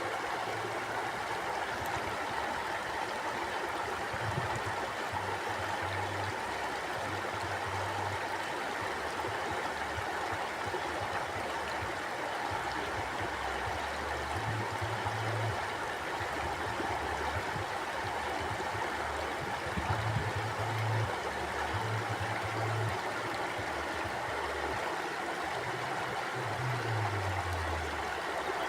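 Mountain stream flowing, a steady rushing and gurgling of water, with a faint low rumble coming and going beneath it.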